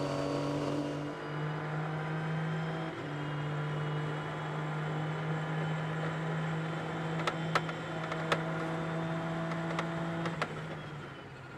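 Race car engine humming at steady low revs, shifting pitch slightly a couple of times, with a few sharp clicks in the middle.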